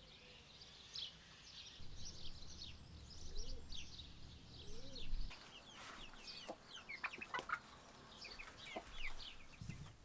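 Chickens clucking, with many short, high falling chirps throughout and a few lower drawn-out calls partway through.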